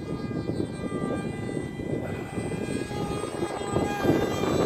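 Strong wind buffeting the microphone as a low rumble, with a faint steady whine of several high tones above it, drifting slightly in pitch.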